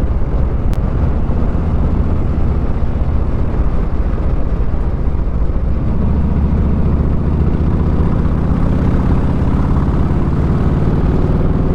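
Motorcycle engine running at a steady road speed under wind rush on the helmet microphone. The engine note strengthens and rises slightly from about halfway through.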